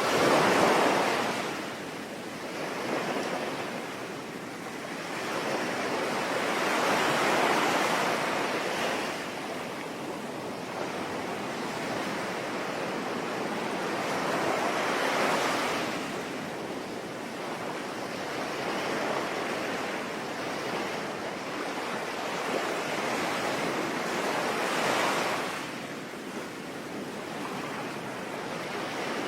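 Sea waves washing ashore, swelling and falling back about every seven to ten seconds, four surges in all, over a steady hiss of rain.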